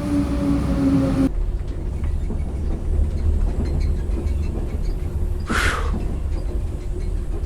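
Train running with a steady low rumble. A held tone stops about a second in, and a short hiss comes about five and a half seconds in.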